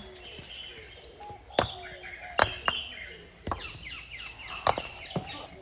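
Bricks knocking together as broken bricks are gathered up: about five sharp clacks at uneven gaps, with small birds chirping.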